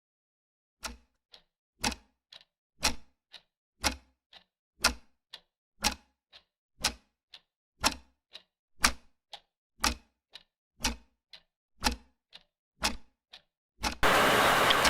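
Clock ticking in a steady tick-tock, one loud tick each second and a softer one half a second after it. Near the end a loud burst of hiss-like noise lasting about a second covers the ticking.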